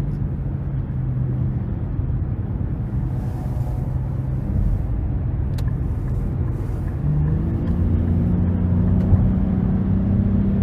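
Nissan Rogue's turbocharged 1.5-litre three-cylinder engine running under way, heard from inside the cabin with road rumble. The engine note is steady, then rises in pitch about seven seconds in and holds higher as the engine pulls harder.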